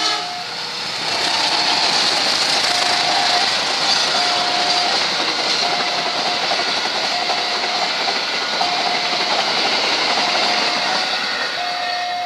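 Passenger train passing close at speed: a loud steady rush and clatter of wheels on rail as the carriages go by. Over it, the level crossing's warning tone sounds in short beeps about every one and a half seconds.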